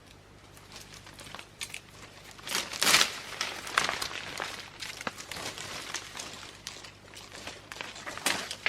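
Rustling and crackling with many irregular clicks and snaps, loudest about three seconds in.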